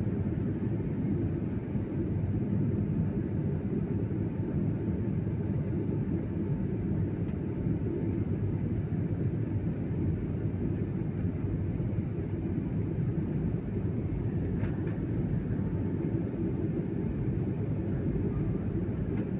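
Steady low rumble of a passenger airliner in flight, heard from inside the cabin, unchanging throughout.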